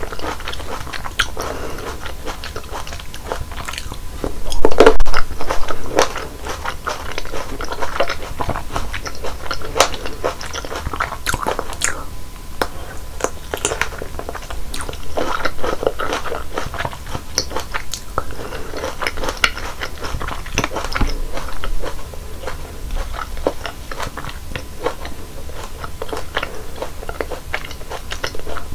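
Close-miked biting and chewing of fresh juicy fruit: crisp, wet crunches and many small mouth clicks, with a louder run of bites about five seconds in.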